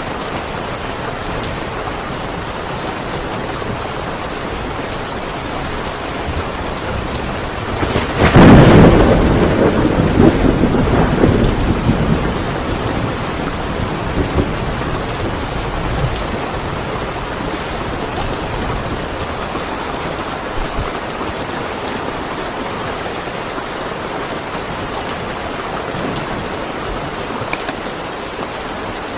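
Heavy rain falling steadily, with a loud thunderclap about eight seconds in that rumbles away over several seconds.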